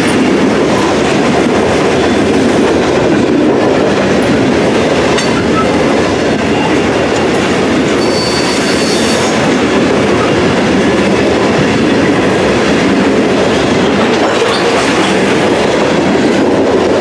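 Freight train of covered hopper cars rolling past close by: a steady loud rumble and clatter of steel wheels on the rails, with a brief high squeal about eight seconds in.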